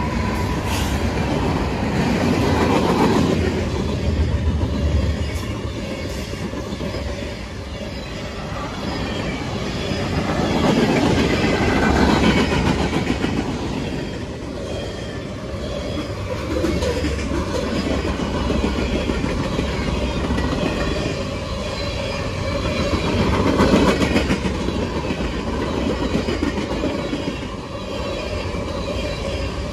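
CSX manifest freight train rolling past, its wheels clattering over the rail joints in a steady clickety-clack, the rumble swelling and easing as the cars go by.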